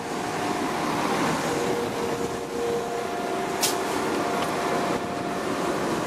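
West Midlands Railway passenger train running along the platform: a steady rumble of wheels and running gear, with several steady whining tones over it. There is a brief sharp click about three and a half seconds in.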